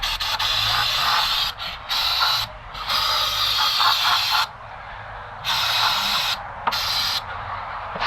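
Aerosol throttle-body cleaner spraying in about five hissing bursts of a second or two each, with short pauses between them.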